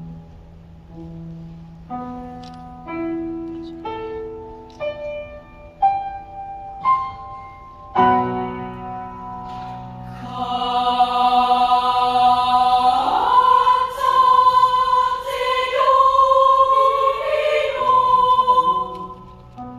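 Children's choir singing with piano accompaniment. Single piano notes sound about once a second at first. Then the choir comes in about eight seconds in and sings full, sustained chords that grow louder.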